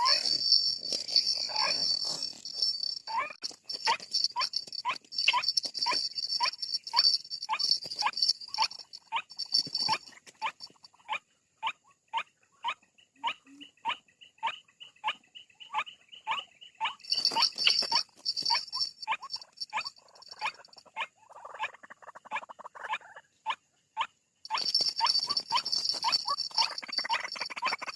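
White-breasted waterhen calls: short harsh notes falling in pitch, repeated over and over at about two to three a second, the call used to lure the birds out of cover. A high steady buzz comes and goes behind them.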